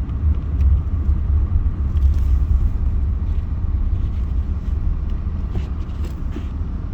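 Car driving, a steady low road rumble with faint scattered ticks above it.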